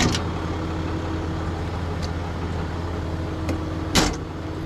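Tow truck engine running steadily with a low hum, with a sharp click about four seconds in.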